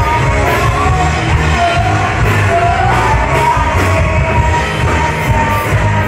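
Live band playing loud rock music with a singer, the low end heavy and booming as heard in a large room.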